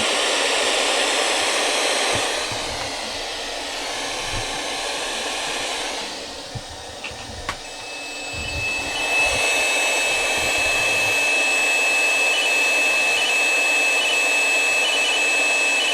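Spirit box radio sweeping, giving a steady hiss of static that drops quieter for a few seconds in the middle. There is a single click about seven and a half seconds in, and after it a thin high steady tone runs on under the static.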